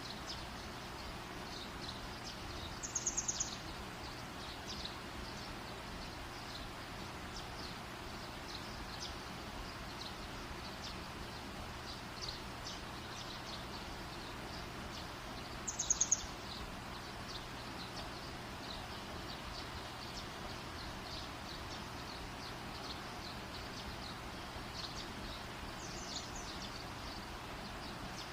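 A campfire burning with a steady hiss and faint, irregular crackles. Short high chirps are heard twice, about three seconds in and again around sixteen seconds, and a fainter one comes near the end.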